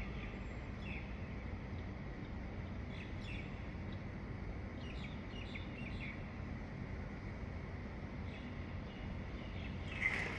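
Songbirds chirping at dawn in short, scattered notes, over a steady low background rumble. A louder chirp comes just before the end.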